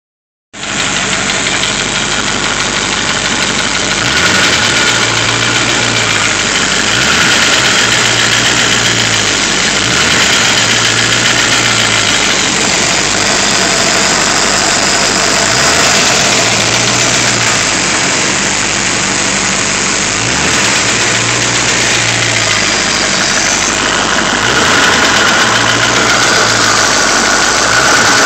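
1995 Ford Mustang engine running with the bad noise its owner is asking about. A low hum swells and fades every few seconds over the steady running.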